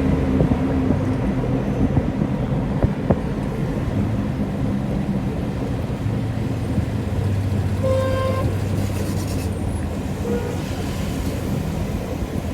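Road traffic: a vehicle engine running steadily, with a short horn toot about eight seconds in and a shorter, fainter one about two seconds later.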